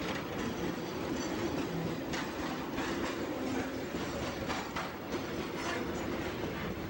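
Freight train rolling by: a steady rail rumble with repeated clicks of wheels passing over rail joints.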